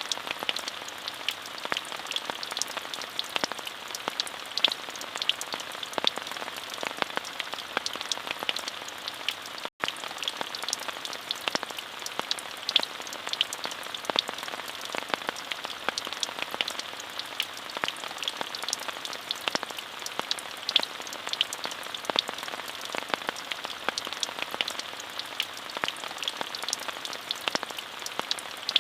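Steady rain, an even hiss with many distinct drop ticks. A momentary dropout comes about ten seconds in.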